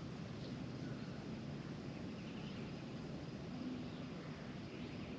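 Outdoor ambience: a steady low rush with faint bird calls, a short warbling call about two seconds in and another near the end.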